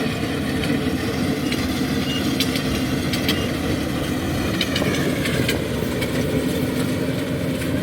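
Kubota DC70G rice combine harvester's diesel engine and threshing machinery running steadily at a constant pitch, with a few faint clicks over the hum.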